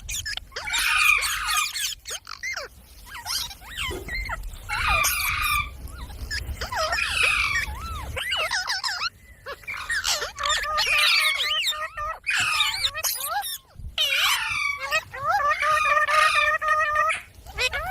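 Pet parrot calling and chattering in short, high, wavering bursts, one after another with brief pauses.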